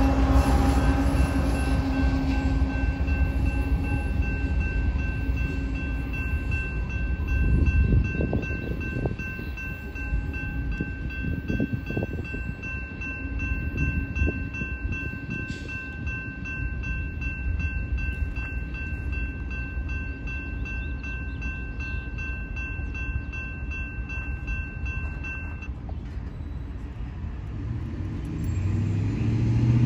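Train running past a grade crossing, its wheels rumbling and knocking over the rails while the crossing warning bell rings steadily. The bell cuts off suddenly about 26 seconds in.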